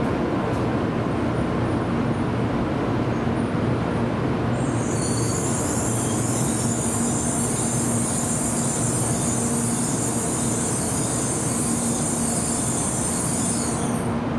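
A Tokaido Shinkansen train moving slowly along the platform. It gives a steady running noise with a low hum, and a high hiss comes in about five seconds in and runs until just before the end.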